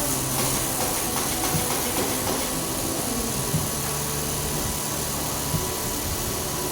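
Handheld laser welding machine running: a steady hiss with a low machine hum that cuts in and out, plus a few faint clicks.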